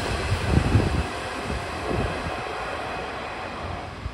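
Nishitetsu 3000 series five-car electric train pulling out, its last car passing close by with a few low thumps about half a second in. Its running noise then fades steadily as it moves away.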